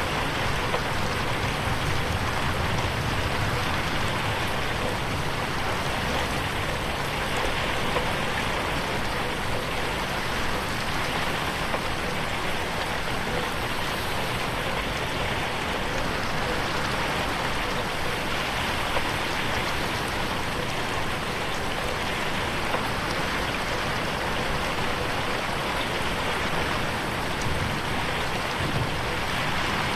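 Steady rain falling and pattering on a window, an even unbroken hiss.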